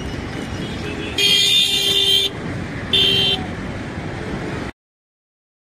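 Rumble of a passing express train's last coach, an end-on generator car, running over the rails. A horn sounds twice over it, a blast of about a second and then a shorter one. The sound cuts off abruptly near the end.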